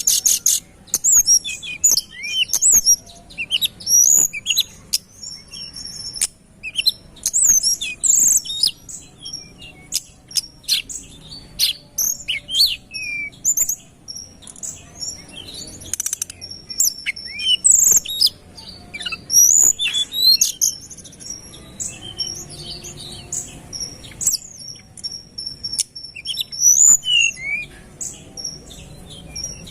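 Tledekan gunung singing: a fast, dense run of high, sharp chirps, short up-and-down whistles and trills, packed close together with only brief pauses.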